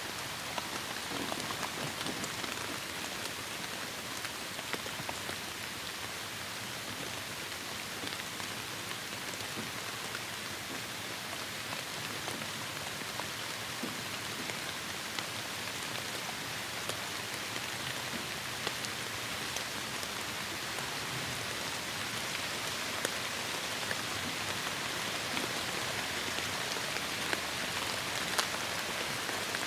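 Heavy rain falling steadily: a dense hiss with many small drop taps, growing slightly louder toward the end.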